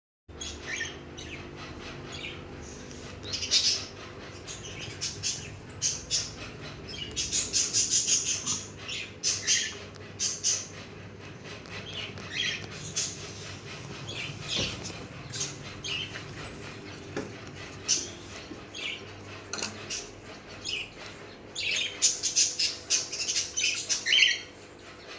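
Many small caged birds chirping and squawking in short, high calls, busiest in a few bursts, over a steady low hum.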